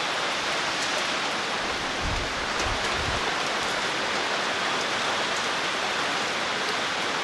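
Heavy typhoon rain falling steadily in a dense, even rush, with brief gusts of wind buffeting the microphone about two and three seconds in.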